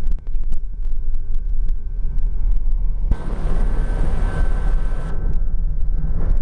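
Helicopter in flight, its engine and rotor making a steady low drone. About three seconds in, a hiss with a thin steady tone comes in over the drone, lasts about two seconds and cuts off.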